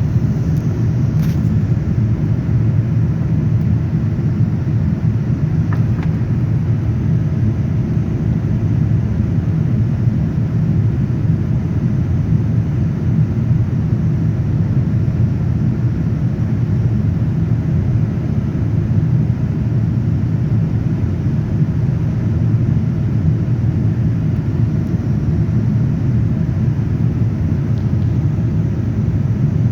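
Airliner cabin noise in flight: a steady low rumble of engines and airflow heard from inside the cabin.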